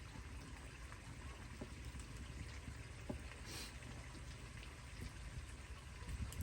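Steady watery patter with scattered small drips and clicks.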